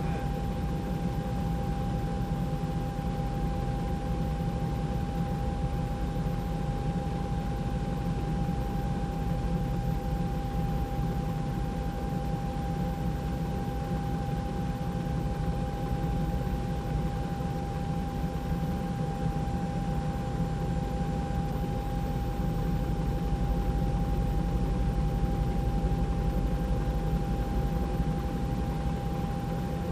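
Steady helicopter cabin noise: engine and rotor running as a low rumble with a thin, steady whine over it.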